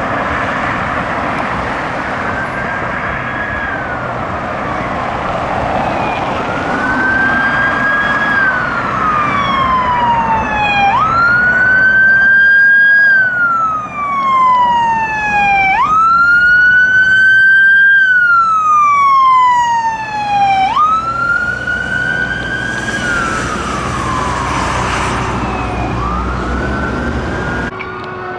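Fire department vehicle's siren in a slow wail, each cycle rising quickly and falling slowly over about five seconds, over road noise. It grows louder, is loudest in the middle, then fades toward the end.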